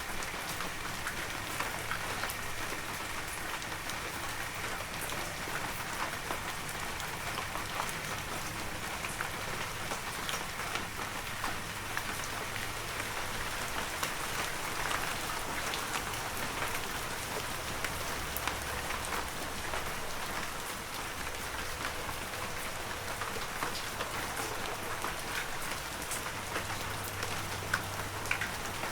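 Heavy rain falling steadily, a dense hiss with many individual drops ticking through it.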